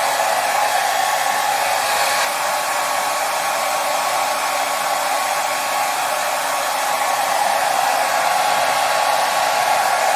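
Hair dryer running steadily: an even, unbroken rush of air with a faint motor hum, played as white noise to soothe a baby to sleep.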